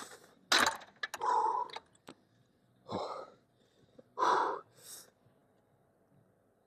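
A man breathing hard and gasping with effort, a string of about six short, sharp breaths in the first five seconds.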